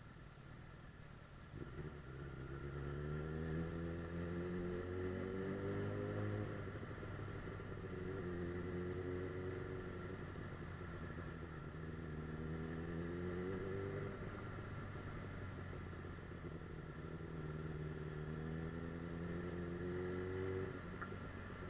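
Suzuki GSF 600 Bandit S's inline-four engine under way, rising in pitch as it accelerates, dropping back and rising again four times as it moves through the gears, with a steady high whine underneath.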